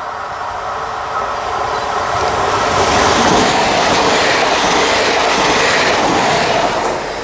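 Electric multiple-unit passenger train passing close at speed: the noise of its wheels on the rails swells about two seconds in, stays loud while the cars go by, and eases near the end.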